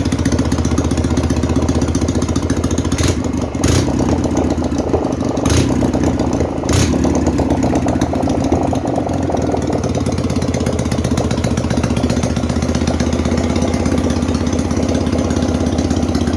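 Freshly overhauled Ural engine running with no exhaust pipes fitted, so it runs open and loud from the ports. It idles steadily, picks up slightly with a few sharp pops or knocks between about three and seven seconds in, then settles back to a steady idle.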